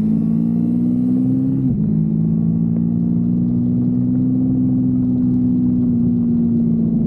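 Kawasaki Versys-X 250's parallel-twin engine running under way, its pitch climbing slightly, then a sudden short dip about a second and a half in. After that it holds a near-steady pitch that eases off slightly near the end.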